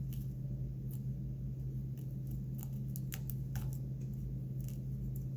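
Cutting old tying materials off a popper fly: a scatter of small, sharp snips and clicks at irregular intervals, over a steady low hum.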